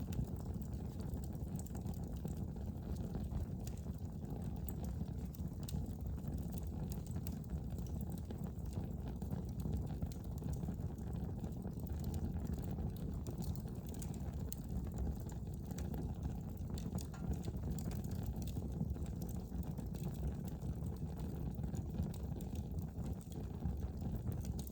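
Wood fire in a fireplace crackling: frequent small irregular pops and snaps over a steady low rumble of the burning fire.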